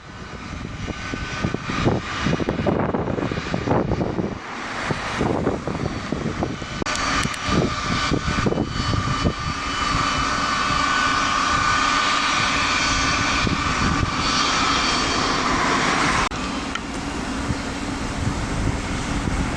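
Twin jet engines of a Boeing 757 freighter running, with a high whine that grows steadier and louder after about ten seconds. Gusts of wind buffet the microphone in the first half. The sound drops abruptly near the end.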